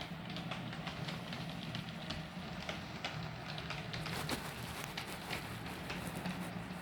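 Model train running on the layout track: a steady low motor hum with many irregular clicks from the wheels on the rails, the clicking getting busier about four seconds in.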